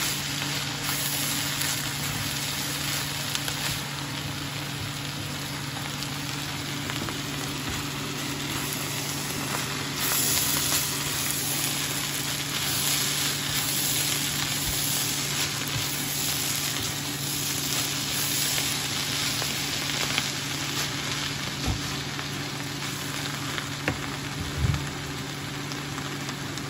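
Shredded bamboo shoots and onions sizzling as they stir-fry in a nonstick pan, turned over and over with a wooden spatula. A steady low hum runs underneath, and a couple of sharp knocks come near the end.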